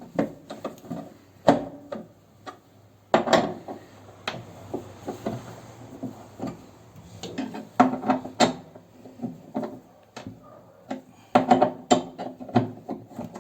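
Irregular knocks, clicks and clatter of hands taking off and refitting parts of a washing machine's drive during a repair, with bursts of denser rattling about three seconds in, near the middle and near the end.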